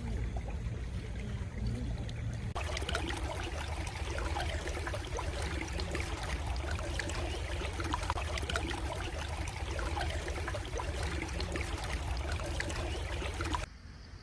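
A stream of water babbling and trickling. It starts abruptly a couple of seconds in and cuts off suddenly near the end, with a steady low rumble underneath.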